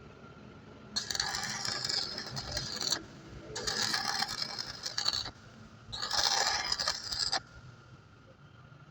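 Three long scraping strokes, each about one and a half to two seconds, starting and stopping sharply.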